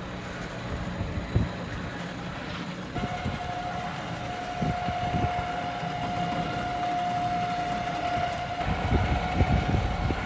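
A yacht's dinghy hoist lifting a dinghy out of the water: a low rumble, then a steady motor whine that starts suddenly about three seconds in and holds at one pitch.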